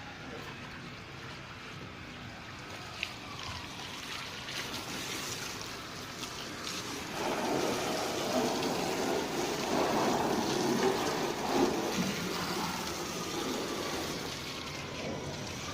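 Water splashing and running over a car as it is washed, growing louder from about seven seconds in.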